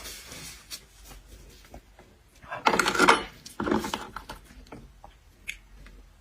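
Table handling noises while eating seafood: light clicks and taps, with two louder crunching scrapes about three and four seconds in, typical of shells being broken and handled.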